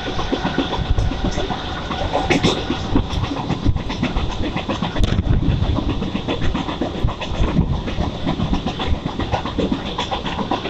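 Mumbai local electric train running at speed, heard from aboard: a steady rumble with continuous rattling and clatter of the wheels and coach.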